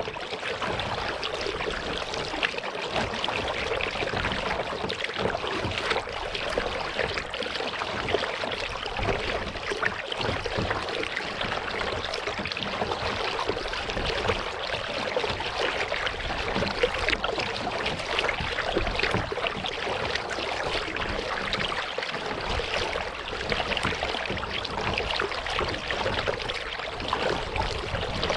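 Close-up water trickling and splashing around a kayak on a lake, steady and continuous with small irregular splashes.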